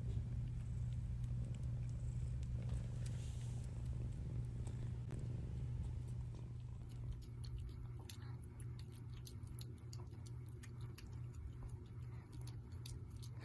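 Domestic cat purring steadily and close up. Many small sharp clicks join it about halfway through.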